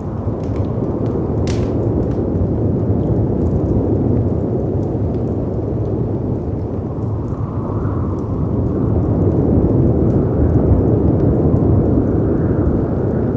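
Layered storm ambience: a dense, low rumble of howling wind and waves crashing against rocks, swelling every few seconds, with the scattered crackle and pop of a wood fire over it. One sharper pop comes about a second and a half in.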